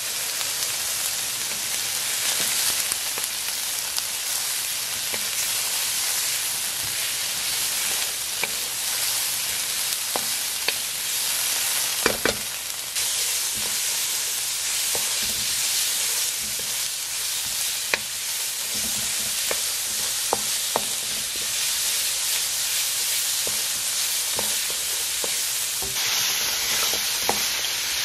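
Sliced onions, garlic and ginger sizzling in sesame oil in a hot wok. A wooden spoon stirs them, clicking and scraping against the pan now and then.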